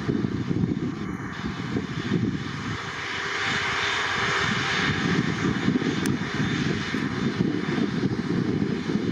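Aircraft engines running: a steady, loud rumble with a broad hiss above it.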